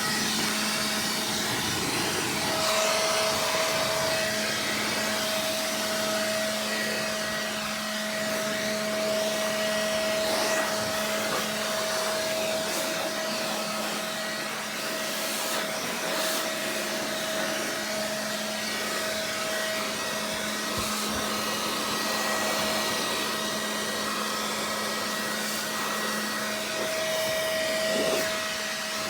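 Electric air blower running steadily, a motor whine over rushing air, drying a freshly washed engine bay.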